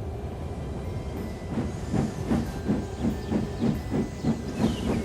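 Steam locomotive sound effect: a steady hiss of steam, then rhythmic chuffing that starts about a second and a half in and goes on at about three puffs a second.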